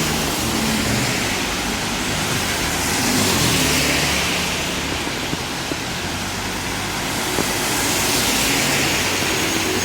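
Cars passing on a wet street: tyre hiss swells and fades twice over a low engine hum.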